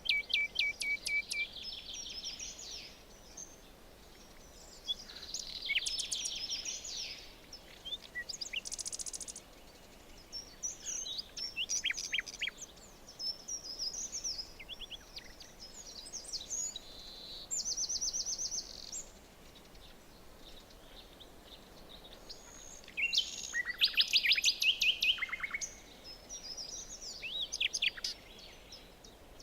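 Several songbirds singing in a forest, phrase after phrase with short pauses between them, including fast trills and quick runs of repeated high notes, over faint background hiss.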